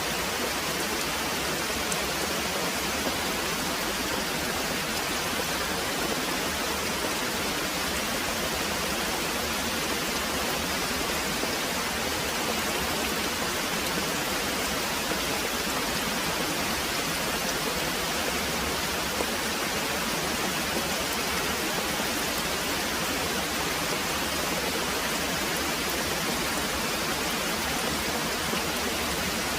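Very heavy rain pouring steadily, a dense, even hiss with no distinct drops or thunder standing out.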